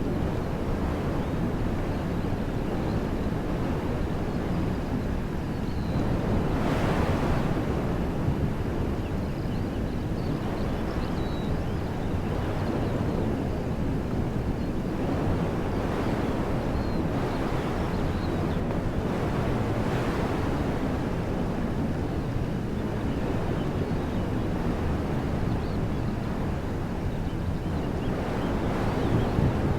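Wind blowing through woodland trees: a steady rushing noise with a low rumble of wind on the microphone, swelling into a stronger gust about seven seconds in.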